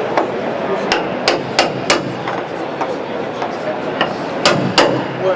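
Hammer blows on a car's body panels during panel beating to straighten crash damage: sharp, irregular strikes, a quick run of four about a second in and another run of three or four near the end.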